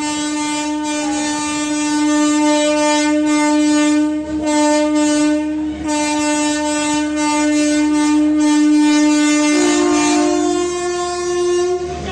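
Train horn held in long blasts, with two brief breaks. Near the end a slightly higher tone joins and takes over, then the horn cuts off.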